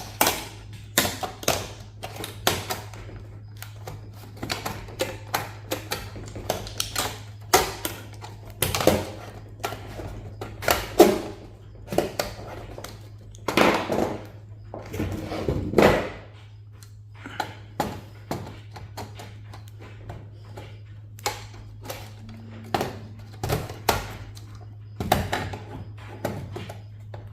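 Irregular metal clicks, taps and knocks of hand tools and loose parts on a server's steel chassis during teardown, over a steady low hum.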